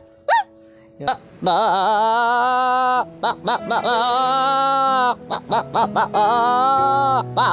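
A man imitating animal calls with his voice, two long wavering calls about a second and four seconds in, with a run of short quick calls between them, over background music.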